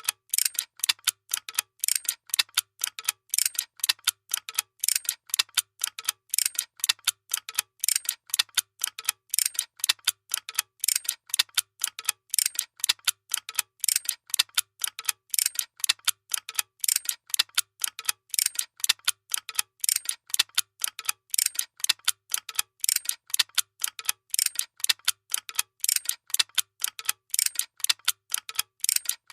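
A workshop machine clicking fast and evenly, several sharp mechanical clicks a second, over a faint recurring hum.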